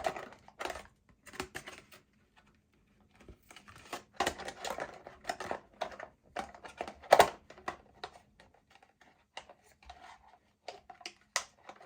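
Irregular plastic clicks, taps and rustles of hands handling a 1/16-scale RC truck and fitting its plastic body shell onto the chassis, with one sharper click about seven seconds in.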